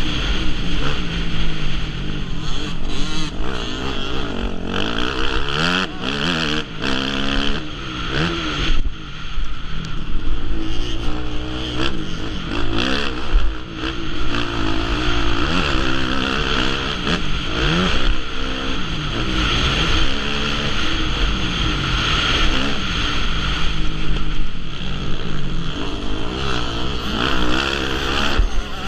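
Motocross dirt bike engines revving on a track, the pitch rising and falling again and again as the throttle opens and closes, more than one engine heard at once.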